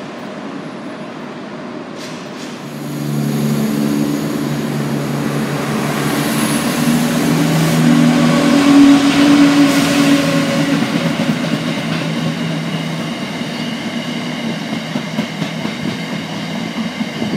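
A diesel multiple unit pulls away under a station canopy, then a Class 66 diesel-electric freight locomotive, with its two-stroke V12 engine, passes close by, its engine note loudest about eight to ten seconds in. Its train of box wagons follows with a rumble and uneven clatter of wheels on rail joints.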